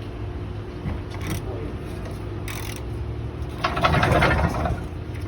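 Ratchet wrench set to loosen, clicking as it backs out the oil drain plug of a 5.7 Hemi, with a louder stretch of clattering about two-thirds of the way in, over a steady shop hum.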